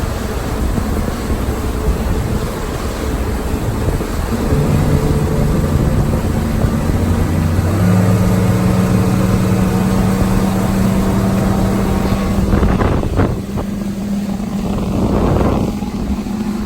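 250-horsepower outboard motor running with the boat under way, its note stepping up in pitch twice, about four and eight seconds in.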